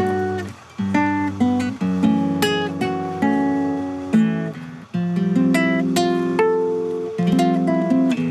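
Guitar playing picked notes and chords that ring and fade, with short breaks about half a second in and near five seconds.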